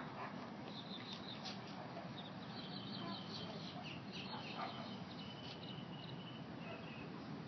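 Birds chirping faintly in short, repeated high calls over a steady low outdoor background hum.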